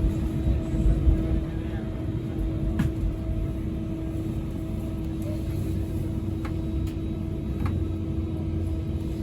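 Interior of a TransPennine Express Class 397 electric multiple unit running at speed: a steady low rumble with a constant hum, and a few light clicks scattered through.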